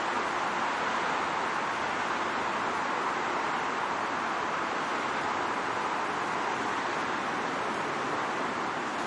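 Steady rushing noise of wind and street traffic, even and unbroken throughout.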